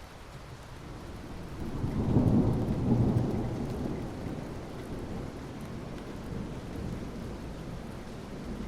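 Steady rain with a low roll of thunder that builds about two seconds in, peaks, and rumbles away slowly over the next few seconds.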